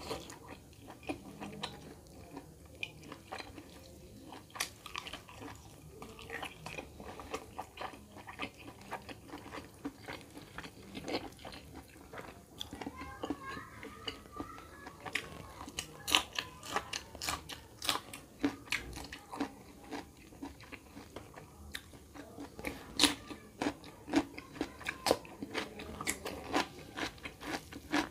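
Close-up eating sounds of chicken curry and rice: chewing with many sharp, wet mouth smacks and clicks. These grow more frequent and louder in the second half.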